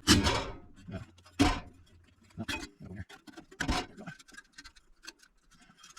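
Metal knocks and clinks as a loose muffler end cap is worked back over the outlet of an RV generator's muffler: four louder knocks over the first four seconds, with lighter clicks between and after.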